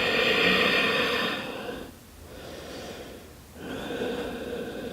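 A person taking two long, audible breaths through the nose and mouth while holding a yoga twist. The first is louder and lasts about two seconds; the second, softer one begins about three and a half seconds in.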